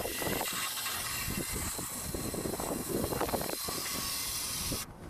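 Nitrogen hissing steadily as it flows from the cylinder into the air conditioner's refrigerant lines to pressurize the system for a leak test; the hiss cuts off suddenly near the end.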